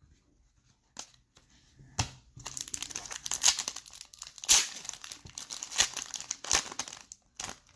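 Trading-card pack wrapper being torn open and crinkled: a couple of sharp clicks, then about five seconds of dense crackling and rustling.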